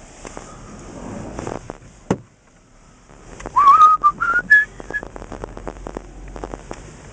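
A person whistling a short phrase of notes that step upward in pitch, about three and a half seconds in. A sharp knock comes about two seconds in, with many lighter knocks around and after the whistle.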